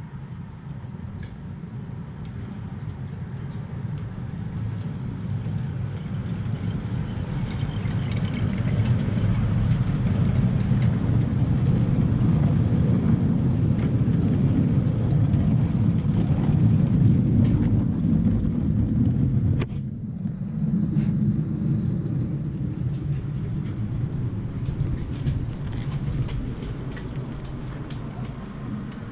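A 7¼-inch gauge miniature train running on its track, a low rumble that builds to its loudest partway through, with scattered clicks over it. The rumble drops off suddenly about two-thirds of the way in, then carries on more quietly.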